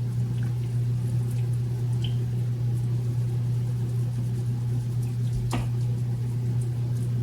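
Steady low hum, with a few faint clicks and one sharper knock about five and a half seconds in, as a knife slices into raw chicken breasts.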